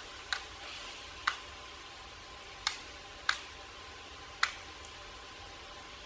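Black woodpecker pecking at tree bark while foraging: five sharp, irregularly spaced knocks over a faint steady hiss.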